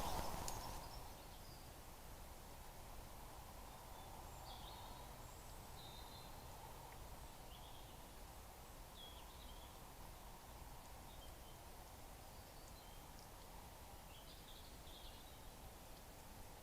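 Faint outdoor ambience picked up by a trail camera's microphone: a steady low hiss with scattered faint, short bird chirps. There is a sharp click at the very start.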